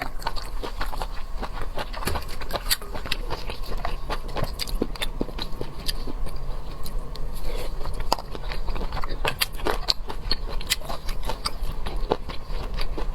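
Close-miked eating of oysters: a dense run of wet mouth clicks, smacks and chewing, the sounds coming several times a second with no break.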